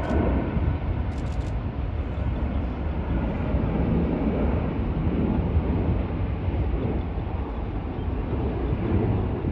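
Aircraft engine noise: a loud, steady, low rumble of an airplane passing nearby.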